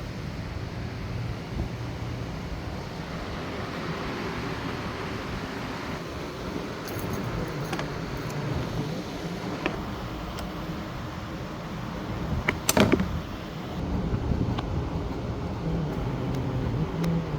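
Keys jangling and scattered clicks and clacks of hands working on a motorcycle, with a louder clatter about thirteen seconds in, over a steady low background rumble.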